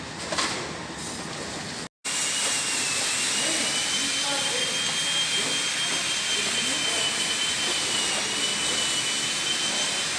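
A machine running steadily: a loud rushing hiss with a high, nearly steady whine over it, starting abruptly after a brief dropout about two seconds in.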